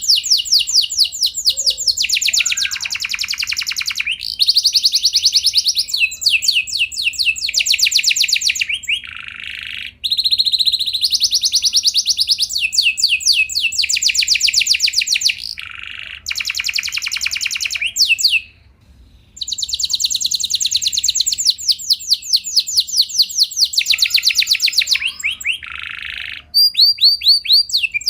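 Domestic canary singing a long, loud song of fast rolls and trills, each a rapid run of evenly repeated notes, with brief pauses about a third and two thirds of the way through.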